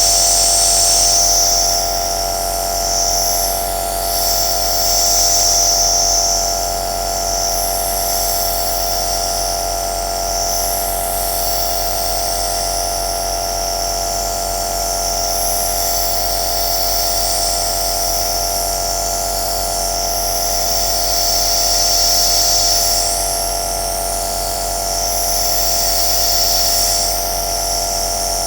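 Compressor nebulizer (aerosol machine) running steadily: a motor hum with a steady whine over the hiss of air and mist, the hiss swelling and fading every few seconds.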